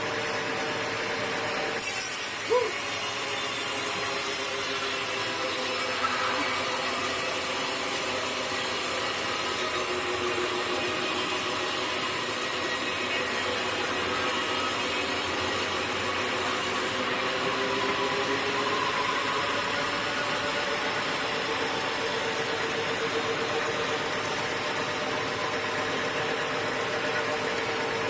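Sawmill running, its saw cutting steadily through wood over the machine's engine, with a higher hiss during most of the first half of the cut.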